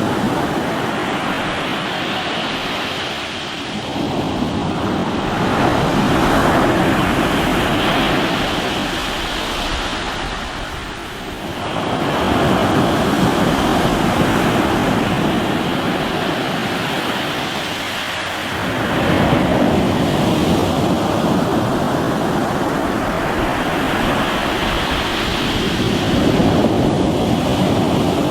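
Sea waves breaking and washing on a rocky shore, a continuous loud rush of surf that swells and eases in slow surges every several seconds, with some wind on the microphone.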